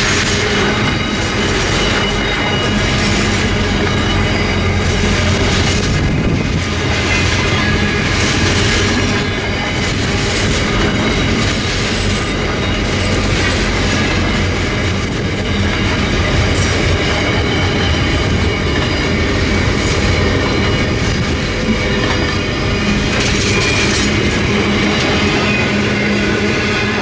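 Container wagons of a long freight train rolling past close by: a steady rumble and clatter of steel wheels on the rails, with some high wheel squeal.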